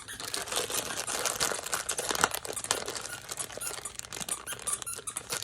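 Funko mystery-mini packaging being opened: a continuous crinkling and rustling with many small clicks and squeaks as the box and wrapping are worked apart.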